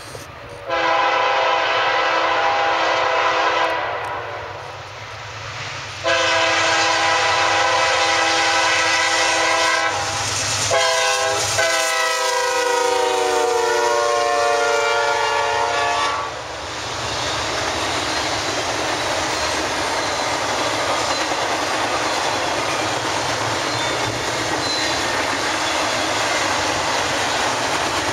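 Freight locomotive's air horn sounding a chord in long blasts: two long, a short one, and a final long blast whose pitch drops as the locomotive passes, the standard grade-crossing signal. It is followed by the steady rumble and wheel clatter of a double-stack container train rolling by.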